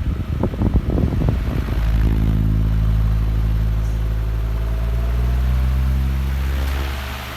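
Venti Delta Ventura 60 cm three-blade pedestal fan running. For the first couple of seconds its airflow buffets the microphone in uneven gusts. After that a steady, even motor hum takes over, and it fades near the end as the gusts return.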